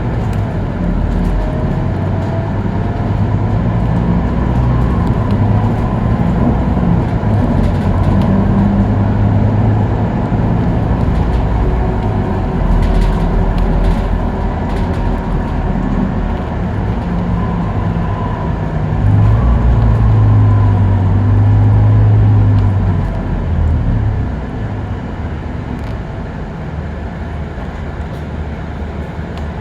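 Scania K310UB city bus under way at freeway speed: its diesel engine droning steadily under road noise, the engine note shifting pitch. It grows louder for a few seconds about two-thirds of the way through, then drops back.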